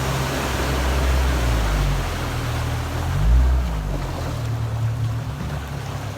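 Motorboat engine running low under a wash of water. Its pitch dips and climbs again with a brief low surge about three seconds in, then it eases off as the boat slows to dock.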